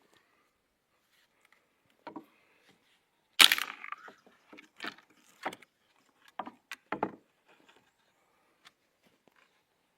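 Dry wood cracking and snapping: one loud sharp crack about three and a half seconds in, with several smaller cracks scattered before and after.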